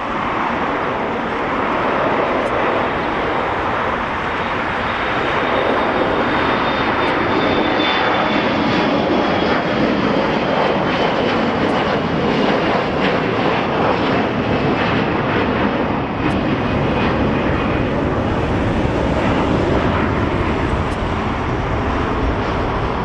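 Jet airliner engines running loud and steady as the plane passes, with a thin high whine that slowly falls in pitch.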